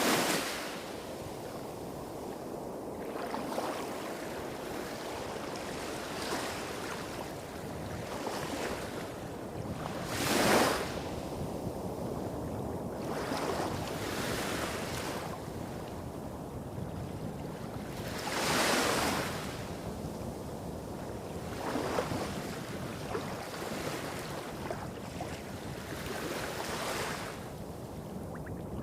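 Small sea waves breaking and washing on a beach, each break a short rush of hiss, the biggest about ten and nineteen seconds in. Under them runs a steady low rumble of waves hitting rocks a few hundred metres away.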